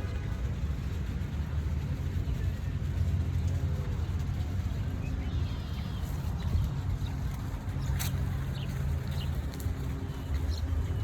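Steady low rumble of city traffic, with faint, scattered bird chirps over it and a single sharp click about eight seconds in.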